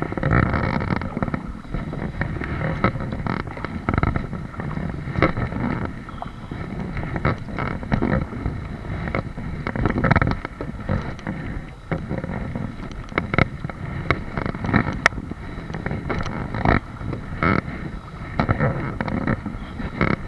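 A kayak under way: wind buffeting the microphone over water noise, with frequent irregular knocks and clatters against the hull.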